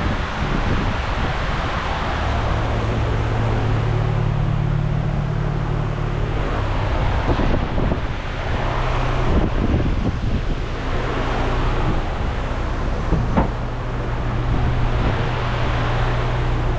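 Ford Mustang 2.3L EcoBoost turbocharged four-cylinder engine running steadily, its speed rising a little about four seconds in and settling back a few seconds later.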